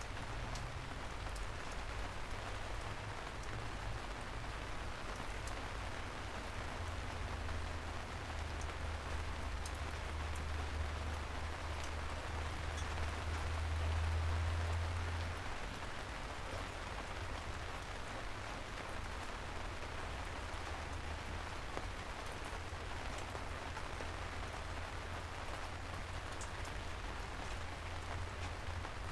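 Steady rain falling, a continuous hiss with scattered drops ticking. A low rumble underneath builds to its loudest about halfway through, then eases back.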